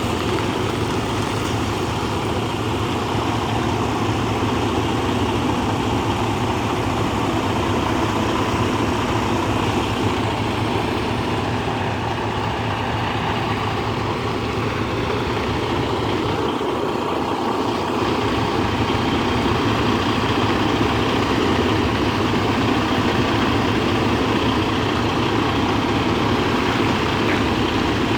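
Semi truck's diesel engine idling steadily while the truck creeps slowly in reverse.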